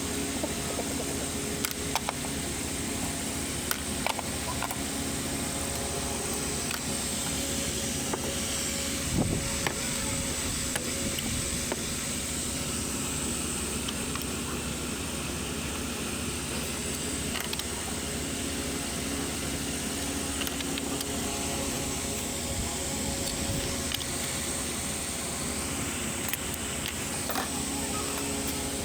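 A steady mechanical hum, holding an even pitch throughout, with scattered light clicks and taps and a brief louder disturbance about nine seconds in.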